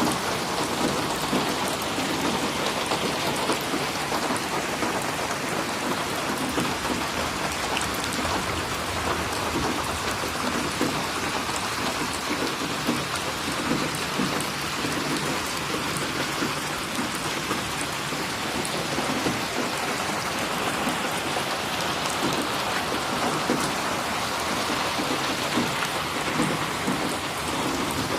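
Steady rain falling, with many close drops splashing. The level stays even throughout.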